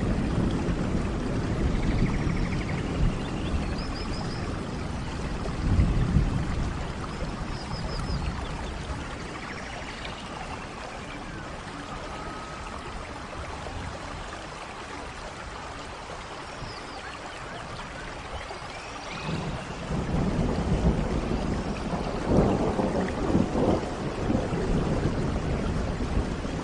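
Steady rain with low rolls of thunder, swelling about six seconds in and again from about twenty seconds on, and faint high chirps now and then.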